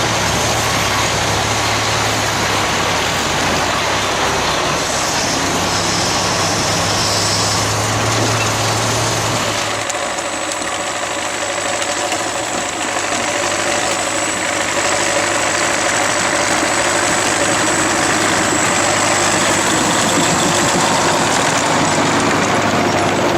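An engine running steadily, its low hum dropping away and the note changing about ten seconds in.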